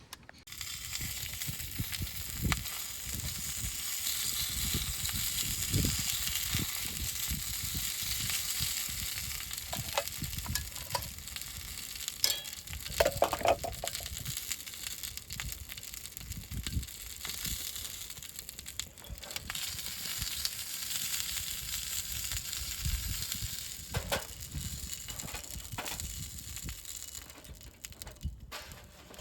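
Food sizzling steadily in a hot pan or on a grill over a wood fire, with a few clicks and low knocks over it; the sizzle fades near the end.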